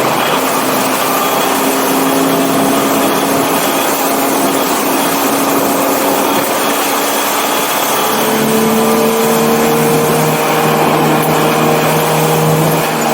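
1984 BMW 318i's four-cylinder engine running hard at a steady pitch over heavy wind and road noise. About eight seconds in the engine note changes to a new pitch and then holds steady.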